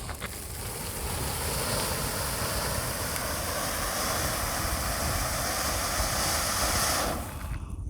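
A 'Colours Rain' firework hissing steadily as it throws out sparks for about seven seconds, then cutting off near the end.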